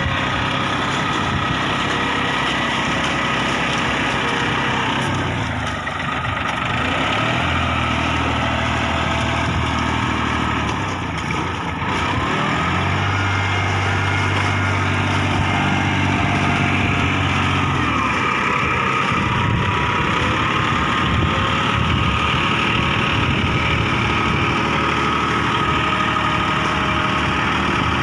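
New Holland tractor's diesel engine running steadily. The engine note dips briefly about six and eleven seconds in, and there are stretches of heavier low running in between.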